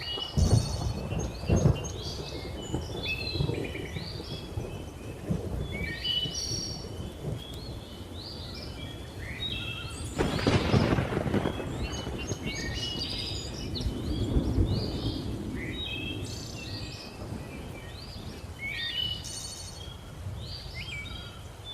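Thunderstorm ambience: thunder rumbling, with a loud crackling peal about ten seconds in, under a dense chorus of birds chirping and calling. A faint hiss of rain lies beneath.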